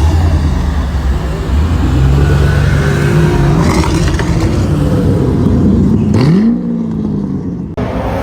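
Car engine running loud and close with a deep rumble, revved about six seconds in so the pitch climbs sharply before settling.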